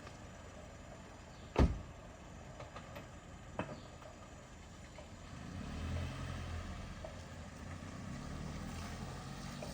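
A single sharp knock, then about five and a half seconds in a motor vehicle's engine starts running with a steady low hum that lasts to the end.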